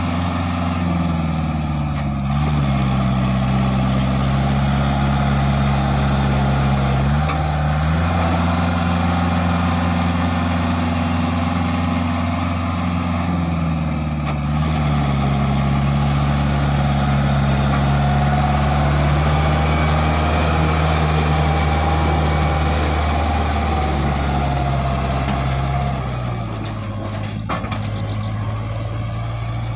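Kubota MU45DI 4x4 tractor's diesel engine running, its pitch stepping down and back up several times as the engine speed changes, settling lower near the end. A higher whine rises and falls around the middle.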